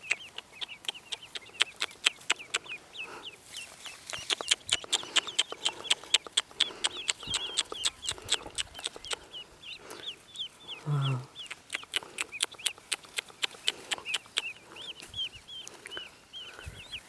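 Newly hatched ducklings peeping constantly: many short, high calls that each slide down in pitch, several a second, over a run of sharp clicks.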